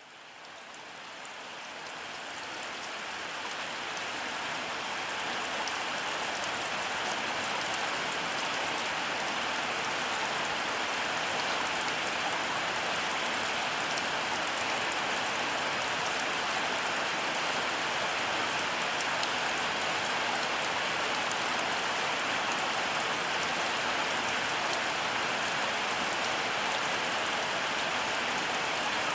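Heavy rain falling steadily, an even hiss with scattered drop ticks, fading in over the first few seconds.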